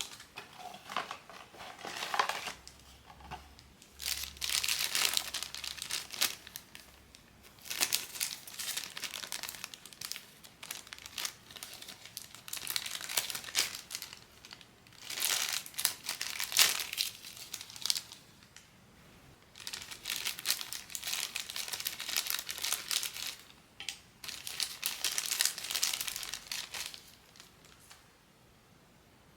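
Plastic blind-box packaging crinkling and rustling in repeated bursts as it is handled and opened. The sound stops shortly before the end.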